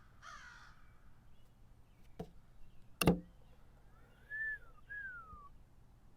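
Two sharp clicks from the blitz chess game, a light one about two seconds in and a louder one about three seconds in, as pieces are put down and the clock is hit. Then two short whistled calls, each rising and then falling.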